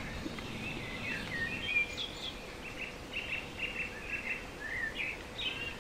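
Faint birdsong: short chirps and whistled phrases, with a run of quick repeated notes about three seconds in.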